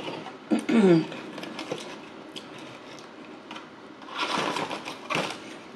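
A person eating gives a short wordless 'mm' that falls in pitch about half a second in. Near the end come two short noisy bursts of mouth or handling noise.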